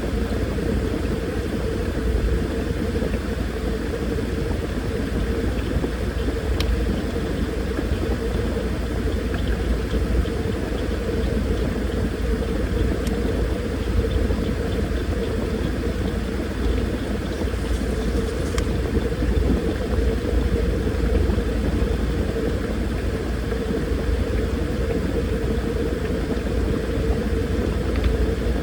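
Washing machine running: a steady motor hum over a low rumble from the turning drum, with a couple of faint clicks.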